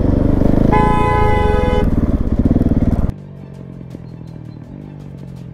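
GasGas SM700 supermoto's single-cylinder engine with a LeoVince slip-on exhaust running while riding, with a vehicle horn sounding steadily for about a second near the start. About three seconds in the engine sound cuts off, leaving a much quieter low hum.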